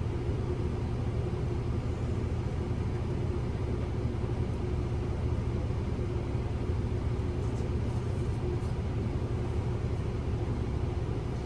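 City bus interior while driving: a steady low rumble of engine and road noise, with a faint steady hum.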